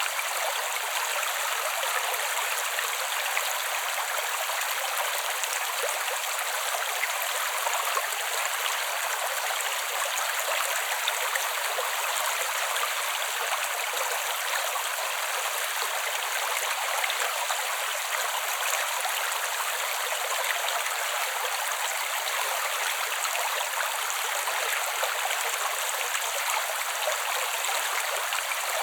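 Creek water flowing in a steady, even rush. The running water is all in the higher range, with no low rumble and no single splashes standing out.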